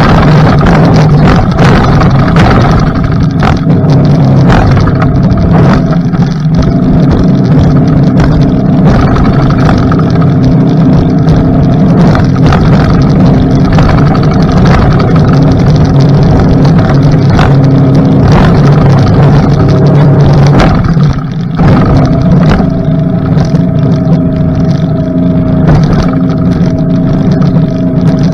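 Suzuki DF60 four-stroke outboard motor running at speed on a rigid inflatable boat. It is loud and steady under heavy rushing noise, with many short knocks, and the level dips briefly about three-quarters of the way through.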